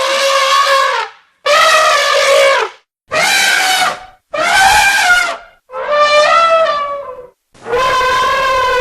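An animal calling over and over in loud, pitched cries of about a second each, five or six in a row with short breaks between them, which cut off abruptly.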